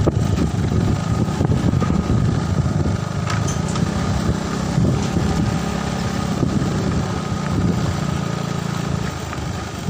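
A small engine idling steadily, with wind buffeting the microphone; the engine's hum stops about nine seconds in.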